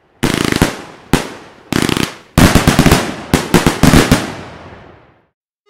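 Fireworks going off: clusters of rapid crackling pops and sharp bangs with ringing tails, densest in the middle, dying away about five seconds in.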